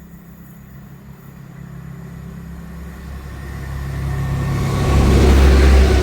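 Diesel train approaching and growing steadily louder, its engine drone and running noise building to a peak near the end.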